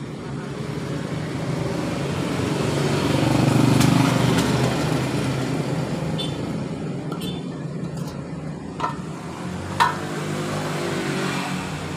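A motor vehicle passing by, its engine sound swelling to a peak about four seconds in and then fading. Two short clicks come near the end.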